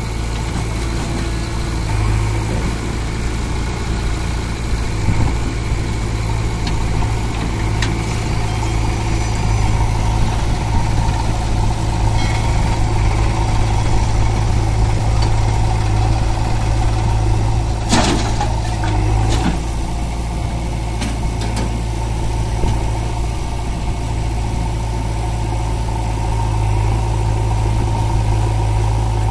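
Heavy diesel engine running steadily at a low idle-like pace, with two sharp knocks about two-thirds of the way through.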